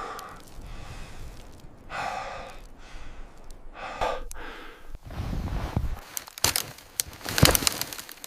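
A man's breathy sighs and grunts of effort, three of them about two seconds apart, followed near the end by a quick cluster of sharp clicks and knocks.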